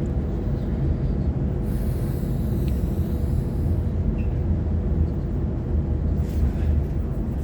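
Sydney Trains Waratah electric multiple unit running, heard from inside the carriage: a steady low rumble of wheels and running gear with a faint steady hum. A brief hiss comes about two seconds in and again near six seconds.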